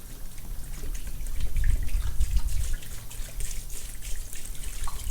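Mineral spirits trickling and splashing as they are poured from a gallon jug into a container, with low handling bumps loudest around the middle.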